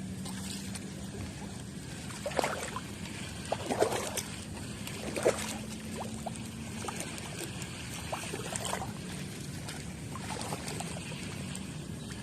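Water splashing and trickling in short bursts, several small splashes a second or more apart, over a faint steady hum.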